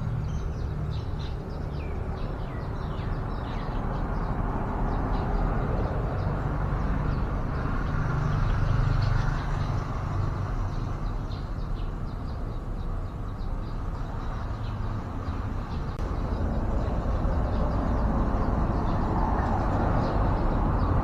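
Many short, high bird chirps scattered over a steady low rumble of road traffic.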